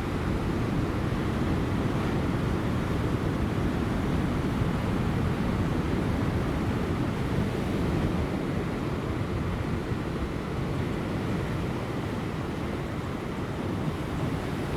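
Ocean surf breaking on rocks near high tide: a steady, dense wash of waves with most of its weight low, and no single break standing out.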